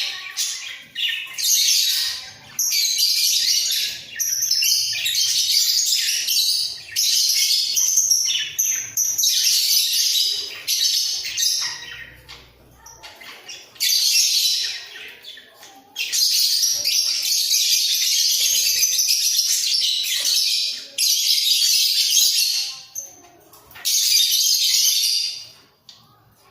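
A pair of budgerigars chattering and warbling in busy, high-pitched bursts of one to a few seconds, with short breaks between them and a longer lull about halfway through.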